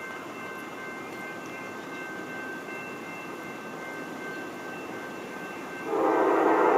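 Freight train rumbling, with faint steady ringing tones. About six seconds in, a diesel locomotive horn sounds suddenly and loudly and keeps blowing.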